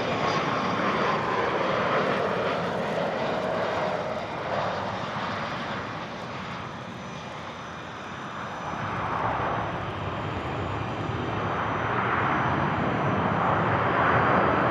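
Business jet engines running, with a whine that falls in pitch at the start; the noise dips in the middle and builds again near the end.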